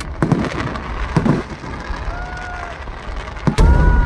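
Aerial fireworks bursting overhead: a series of sharp bangs over a rolling low rumble, with the loudest, deepest booms near the end.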